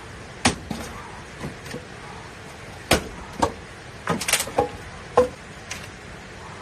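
Firewood being chopped or broken up by hand: irregular sharp knocks of a blade or stick striking wood, several single strokes with a quick cluster of hits around the middle.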